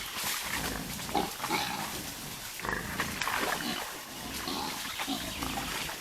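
Wild boars grunting in short, irregular calls over a steady rustling noise.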